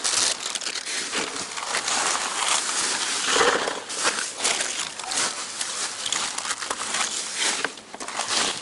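Trash being handled and shifted in a dumpster: continuous crinkling and rustling of plastic and packaging, with many small knocks and scrapes.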